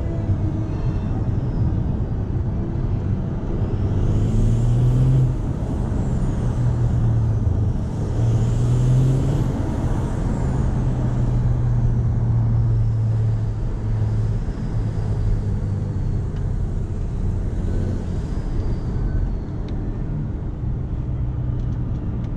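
BMW 535d's straight-piped, stage 1 tuned 3.0-litre twin-turbo diesel straight-six heard from inside the cabin while driving, its low drone rising and dropping back several times, over steady tyre and road noise.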